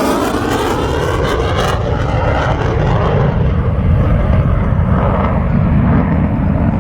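F-35C Lightning II jet on a high-speed pass just below the speed of sound, its single turbofan sweeping by overhead. The jet's hissing scream fades after about two seconds, leaving a deep, steady rumble.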